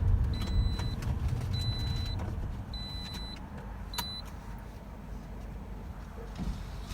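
Car seatbelt warning chime, a high beep repeating about once a second, the sign of an unbuckled seatbelt; it stops about three seconds in. Under it runs the car's low rumble.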